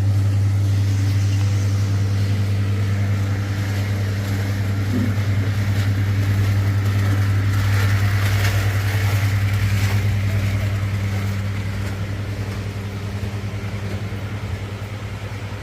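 An engine running steadily with a loud, even low hum, easing off slightly near the end.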